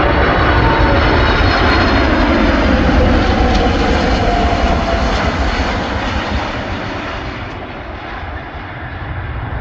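Boeing 747-400 jet engines running loudly on landing, a dense rushing noise with whining tones that drift slightly lower in pitch. The sound fades from about six seconds in.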